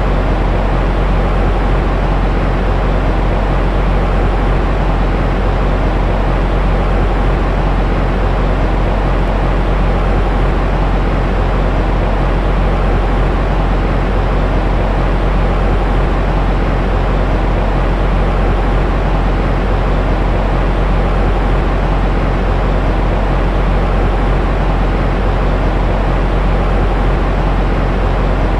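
Continuous, unchanging white noise, deep and rumbling rather than hissy, heaviest in the low end and thinning out in the highs.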